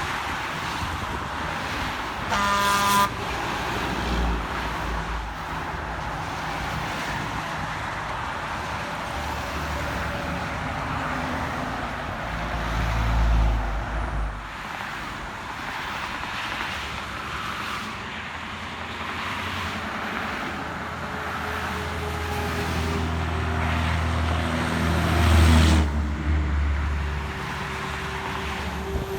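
Roadside highway traffic, with engines and tyres passing steadily. A vehicle horn gives one short toot about two and a half seconds in, and heavy vehicles rumble past twice, the louder pass near the end.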